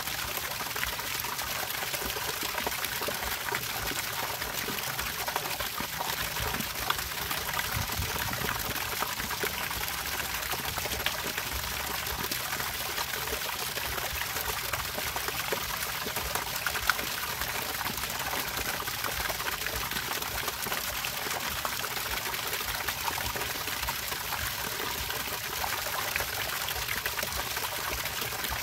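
Water running steadily in a continuous trickling, pouring splash.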